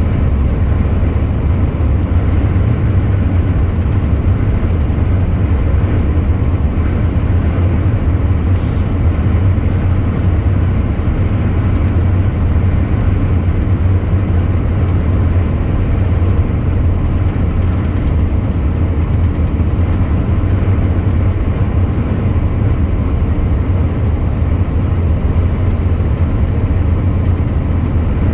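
Truck on the move: a steady low drone of engine and road noise.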